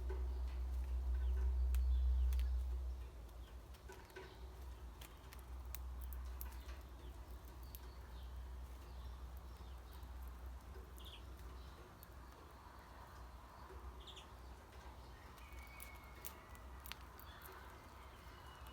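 Outdoor ambience with a few short bird chirps, spaced seconds apart, over a low rumble that is loudest in the first three seconds. Scattered light clicks run throughout.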